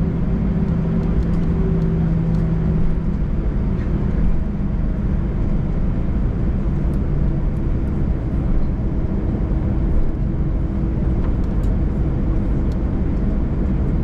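Airliner's jet engines running, heard from inside the passenger cabin: a steady low rumble with a few humming engine tones that shift slightly in pitch about three seconds in.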